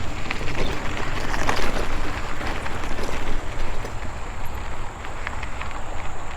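Wind buffeting the microphone on a moving e-bike, a constant low rumble with tyre and road noise underneath and a few faint ticks.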